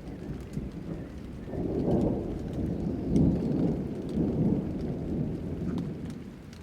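Rolling thunder over steady rain: a low rumble builds about a second and a half in, stays strong for several seconds and dies away near the end, with light raindrop ticks throughout.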